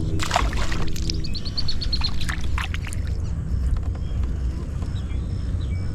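A small bird calls a quick falling series of high, clear notes about a second in, over a steady low rumble, with a few scattered clicks and a short noisy burst near the start.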